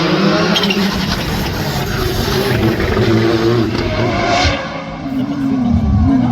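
Rally car engine revving hard, its pitch rising and falling through gear changes; the sound dips about five seconds in, then builds again.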